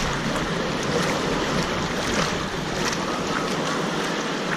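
Wave pool water washing and splashing: a steady noisy wash with small splashes throughout.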